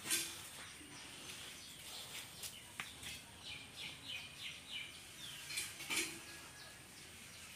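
A small bird chirping a quick series of short, high notes, about three a second, over faint outdoor background noise, with a few light clicks.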